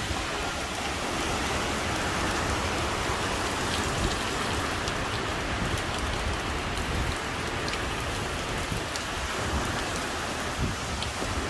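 Steady heavy rain from Hurricane Ian: an even hiss of rain with scattered drop taps on surfaces.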